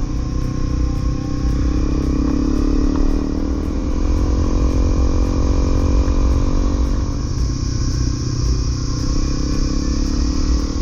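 Honda CRF250L's single-cylinder four-stroke engine running steadily while riding, its note rising a little about two seconds in and settling lower through the middle, over a constant low rumble.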